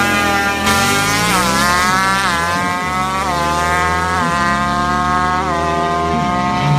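Superbike engine at full throttle on a drag run, its pitch climbing steadily and dipping sharply at each quick upshift, several times in a row.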